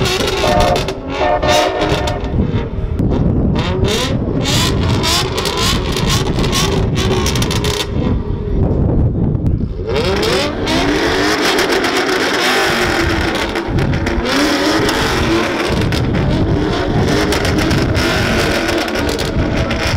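Turbocharged Scion FR-S drift car heard from inside, its engine revving up and down as it slides, with tyres skidding and squealing. The tyre noise is heaviest from about halfway on.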